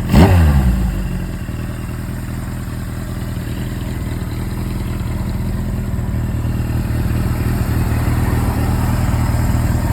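Suzuki GS-series air-cooled inline-four motorcycle engine. A quick throttle blip at the start, with the revs falling back, then a steady idle. With the tachometer and speedometer cables freshly cleaned and oiled, the earlier abnormal noise is gone.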